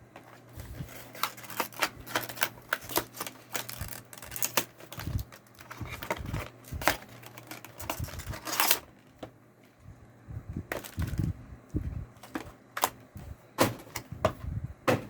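Trading cards being handled and flipped through: an irregular run of sharp clicks and card snaps, with a brief louder rustle a little past halfway.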